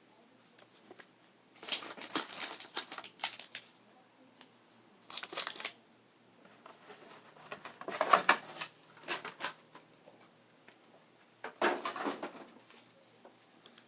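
Pokémon card packaging being handled and opened: crinkling, rustling and scraping in four bursts, the longest about eight seconds in.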